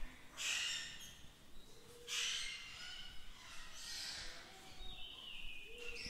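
Wild birds calling, with bursts of high, bright chirps that come back every second or two.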